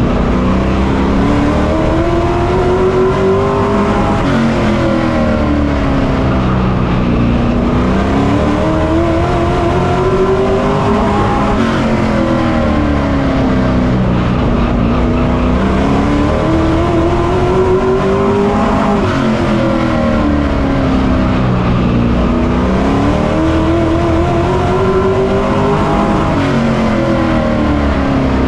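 Pro truck race engine heard from on board, its revs climbing in a long rise and then dropping quickly, over and over about every seven to eight seconds: accelerating down each straight and lifting for the turns on a short oval.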